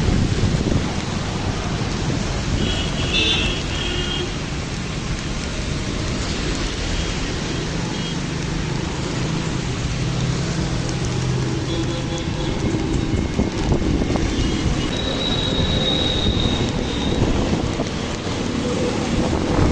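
Steady wind buffeting the microphone, a loud low rumble, with a few brief high chirps.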